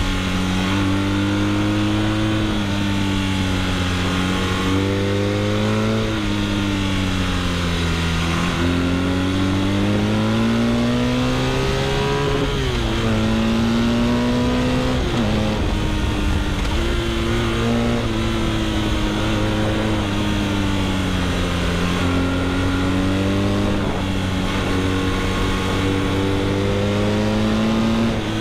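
BMW R nineT's boxer twin through an Akrapovic exhaust, ridden on a winding road: the engine note rises and falls repeatedly as the throttle opens and closes, with a few sudden drops in pitch about halfway through.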